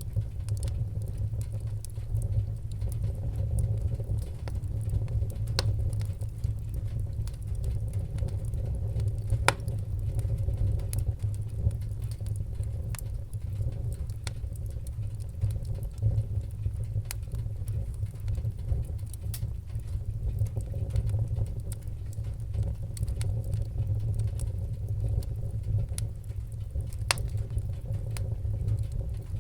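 Wood-burning fire crackling: a steady low roar with frequent sharp pops and snaps, a few of them louder.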